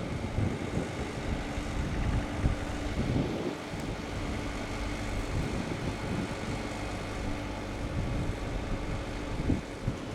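Diesel locomotive engine running with a steady drone, over the low rumble of a passing train.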